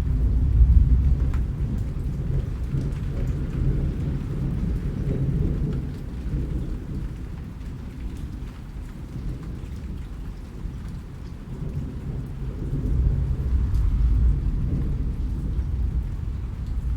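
Steady rain falling, with low rolling rumbles of thunder that swell about a second in and again near the end.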